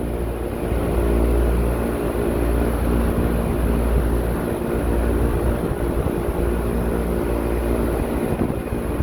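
Carrier rooftop package air-conditioning unit running steadily, its condenser fan and semi-hermetic compressors making a continuous hum with several steady tones over a low rumble.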